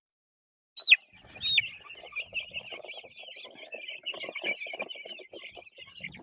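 A flock of young Cornish Cross meat chicks peeping, starting with two loud falling peeps about a second in and then a dense, continuous chorus of high peeps over soft rustling.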